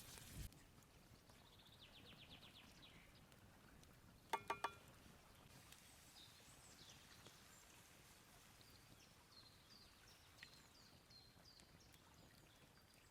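Faint birdsong: a short high trill about two seconds in and a run of small high chirps through the second half. A little over four seconds in come three quick ringing clinks of a cooking utensil against cookware.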